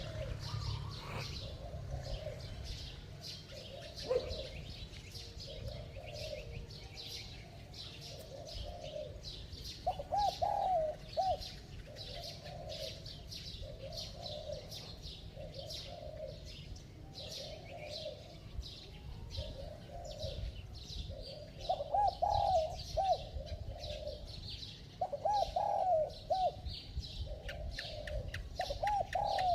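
Spotted dove cooing: a soft coo repeated about once a second, with four louder multi-note crowing phrases, one about a third of the way in and three close together toward the end.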